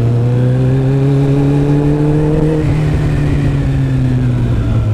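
Kawasaki Ninja ZX-14R's inline-four engine under way on the road, its pitch climbing steadily for about two and a half seconds as it accelerates, then easing down as the throttle is rolled off.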